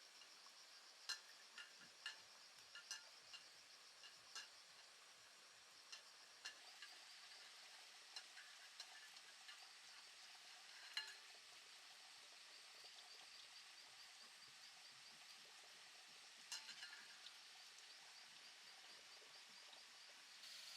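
Faint, steady, high insect chirring with a fine rapid pulse, broken by scattered light clicks and clinks, a cluster near the start, a sharp one about halfway through, and a few more near the end.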